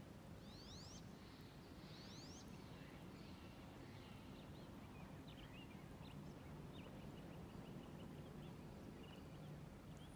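Faint songbird calls over a steady low rumble: quick high rising notes in pairs, twice in the first few seconds, then a run of short high chips.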